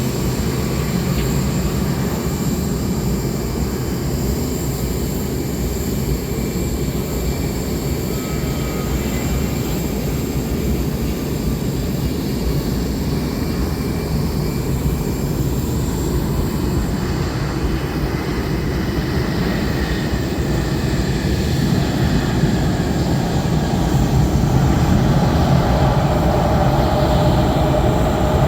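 Jet airliner engines at an airport, a steady low rumble that grows louder in the last few seconds as a humming tone comes in.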